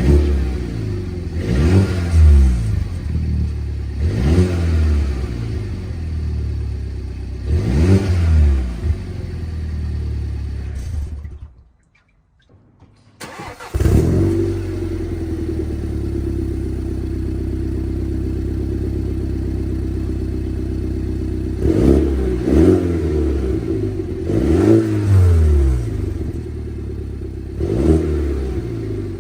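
A 2014 F56 Mini Cooper S's turbocharged four-cylinder, through a JCW cat-back exhaust, idling and revved in short blips three times. About twelve seconds in the sound drops out for a second or two, then the engine starts and settles into a steady idle. It is blipped several more times near the end.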